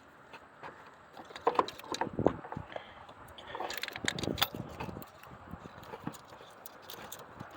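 Scattered light clicks, knocks and rustles of hands working wiring-harness plugs and wires in a car's engine bay, with a few louder knocks about two seconds in and again near the middle.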